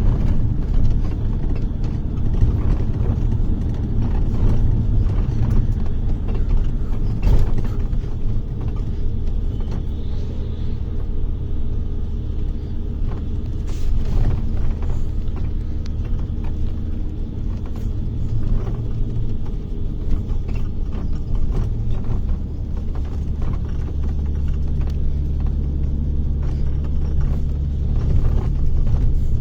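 Bus engine and road noise heard from inside the cabin: a steady low drone with scattered rattles and knocks. About three-quarters of the way through, the engine note changes and steadies.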